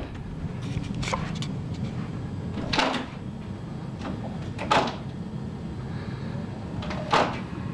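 A door rattling and knocking in its frame four times, a couple of seconds apart, as a cat tries to open it from the other side.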